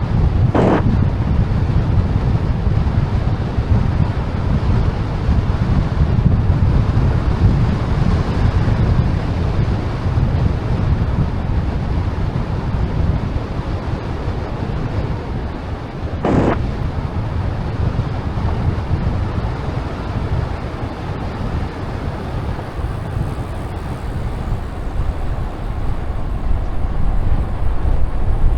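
Wind buffeting the microphone of a camera on a moving bicycle: a loud, steady rumble. A brief sharp sound cuts in twice, about a second in and about halfway through.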